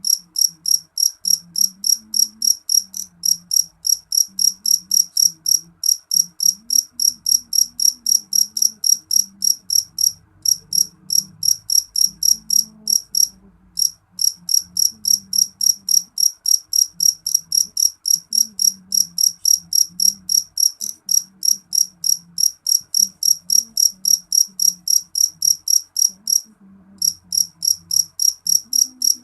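A cricket chirping in a steady, even rhythm of about three high-pitched chirps a second, broken by two short pauses, about halfway through and near the end.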